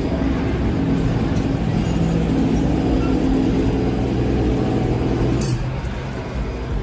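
NASCAR truck V8 engine running at a steady idle. About five and a half seconds in there is a sharp click, and the steady engine note drops away into a rougher, quieter rumble.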